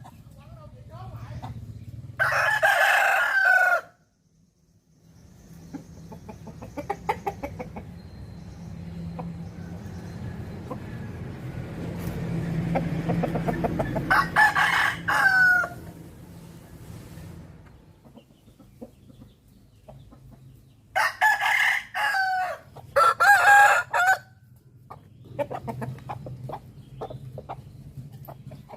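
Roosters crowing four times: once a couple of seconds in, once midway, and twice in quick succession near the end, each crow ending in a falling tail. Quieter farmyard sounds fill the gaps between.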